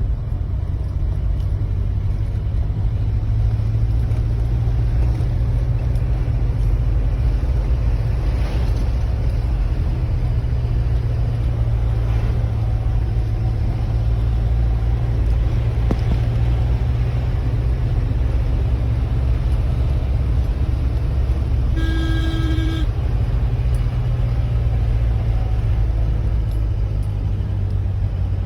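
Steady low rumble of a road vehicle on the move, with one short horn honk lasting under a second, near the end.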